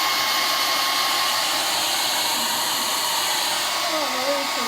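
Ceramic ionic handheld hair dryer running steadily while blow-drying long hair through a round brush: an even rush of air with a faint steady whine.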